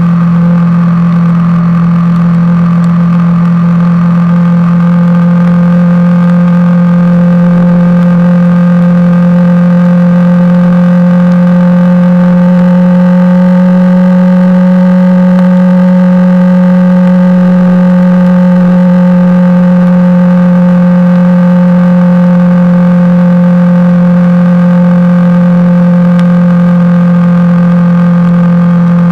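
Honda CBR250R single-cylinder motorcycle engine running at a steady cruising speed, one constant note that rises slightly about halfway through and settles back.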